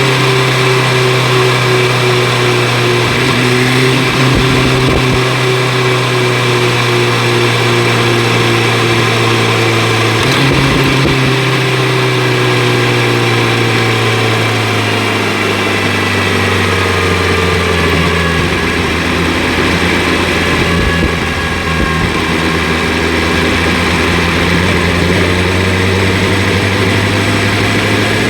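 BMW S1000 RR inline-four engine and Akrapovic exhaust under way at moderate, steady revs. There is a brief break about ten seconds in. Around fifteen seconds in the revs fall and hold lower, then rise slightly near the end, over steady rushing noise.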